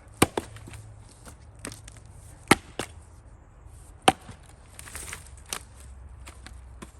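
Axe chopping into firewood: a series of sharp strikes about a second or more apart, the loudest three near the start, two and a half and four seconds in, with lighter knocks of wood between.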